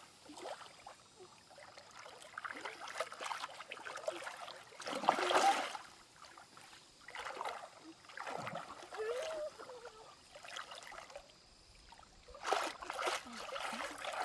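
Water splashing and sloshing in a shallow stream in irregular bursts every second or two, the loudest about five seconds in, as someone works in the water.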